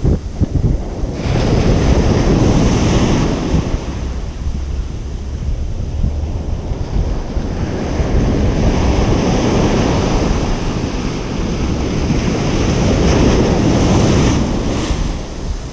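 Ocean surf breaking and washing on a beach, a continuous roar of water that swells and eases as successive waves come in. There is wind rumbling on the microphone.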